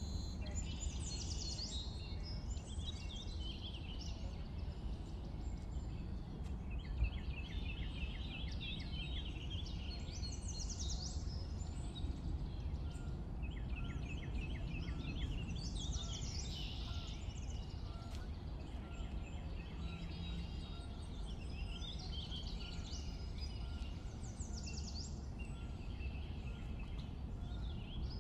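Several songbirds singing in short repeated phrases of quick notes every few seconds, over a steady low outdoor rumble.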